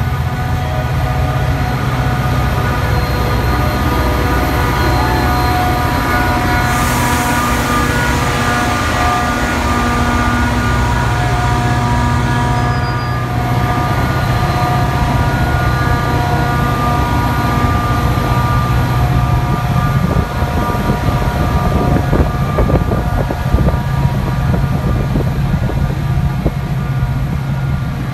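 Metra commuter train passing close by: the diesel locomotive's engine drones low while its horn sounds in long blasts for roughly the first dozen seconds, then the bilevel passenger cars roll past with rapid clicking of wheels over the rail joints.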